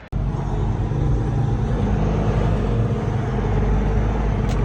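Semi-truck diesel engine running with a steady low rumble, with a short click near the end.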